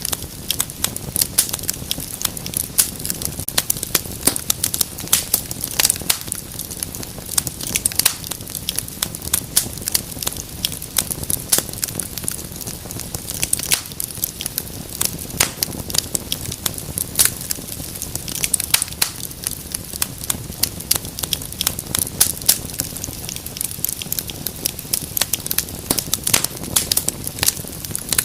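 Wood fire crackling in a fireplace: dense, irregular sharp pops and snaps over a low steady rumble of burning.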